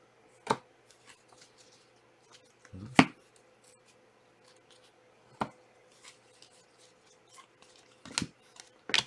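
Trading cards and their packaging being handled on a table: a handful of sharp taps and clicks a couple of seconds apart, with faint rustling between them.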